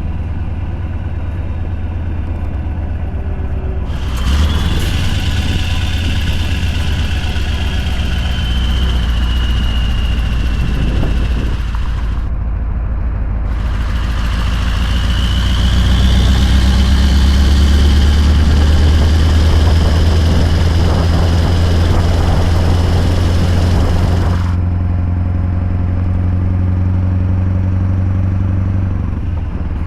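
Scania R580 V8 truck engine with an 8-inch straight-pipe exhaust, driving under load with a steady low drone. The louder exhaust note cuts out for about a second around twelve seconds in, as at a gear change, comes back, then drops away a few seconds before the end, leaving the drone.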